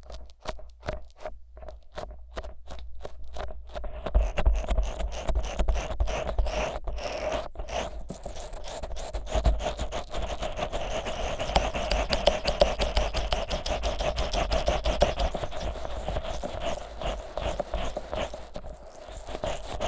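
Vaseline-coated fingers rubbing and massaging the silicone ears of a 3Dio binaural microphone, making a sticky, slick scraping. It starts as quick separate strokes and becomes continuous rubbing about four seconds in.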